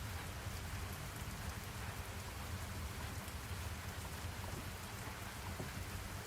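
Rain falling steadily, with scattered drop ticks over a continuous hiss and a steady low rumble underneath.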